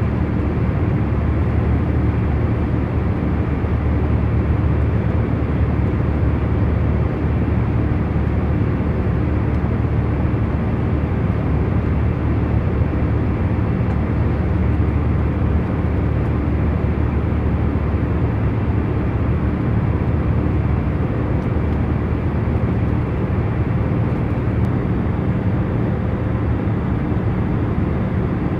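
Airliner cabin noise in cruising flight: a steady, even low rush with a few faint steady hum tones underneath.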